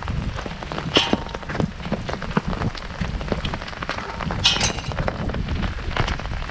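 Heavy rain drumming on an umbrella canopy: a dense, steady patter of drops, with two louder, sharper drop strikes, one about a second in and one about four and a half seconds in.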